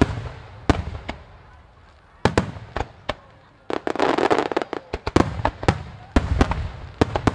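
Large aerial firework shells bursting in rapid succession in a starmine barrage: a string of sharp booms, a dozen or more, with a dense rush of noise about four seconds in.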